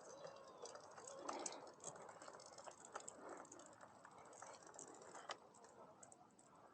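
Near silence: quiet street ambience with faint, irregular clicks and faint distant voices.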